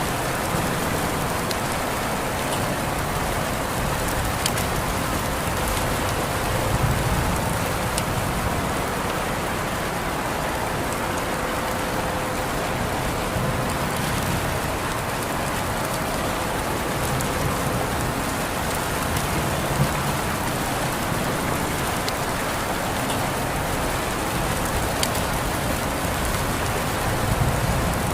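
Steady rain falling on a surface, an even hiss with scattered individual drop ticks and a few soft low swells.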